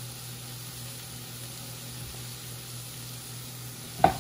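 Chicken, onions and peppers sizzling steadily as they sauté in a frying pan. A single sharp clank near the end.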